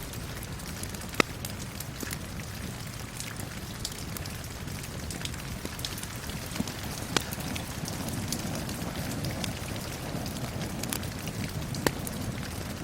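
Steady rain falling, mixed with a crackling wood fire whose sharp pops stand out about a second in, around seven seconds in and near the end.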